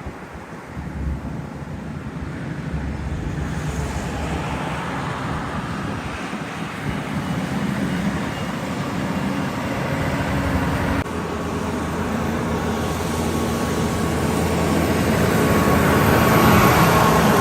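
Heavy truck engine running on the road with tyre noise, growing louder about two-thirds of the way in as it comes close.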